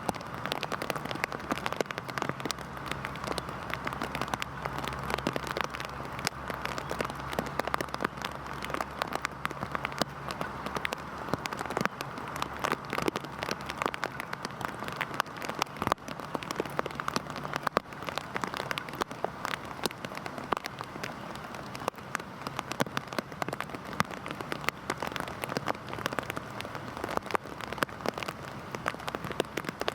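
Heavy rain falling steadily, with many separate drop hits on a surface. A faint low steady hum runs underneath for the first half or so, then fades.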